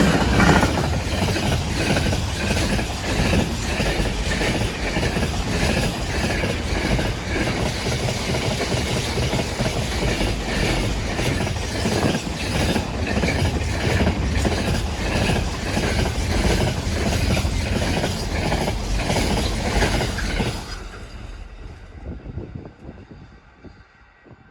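A train passing close by, its wheels clicking over rail joints in a steady run. About 20 seconds in the sound cuts down sharply as the train goes by, then dies away.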